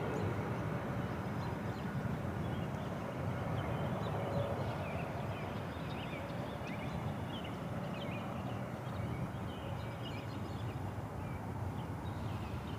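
Steady low rumble of a distant passenger airliner on final approach in strong crosswinds, with faint short high chirps scattered through it.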